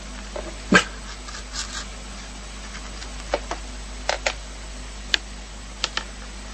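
A dog giving a series of short, sharp barks, the first the loudest, several of the later ones in quick pairs.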